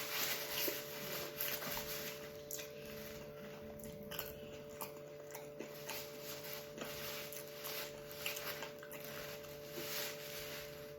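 Soft chewing and eating sounds of a person eating fried akara bean cakes, with faint scattered clicks over a steady low hum.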